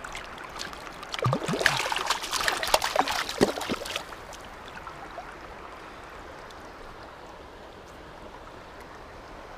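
River water rushing steadily. From about one to four seconds in there is a louder stretch of splashing and clatter close by.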